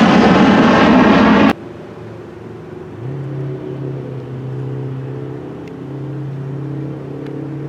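Loud jet airliner engine noise that cuts off abruptly about a second and a half in, followed by a much quieter steady engine hum with a few steady low tones.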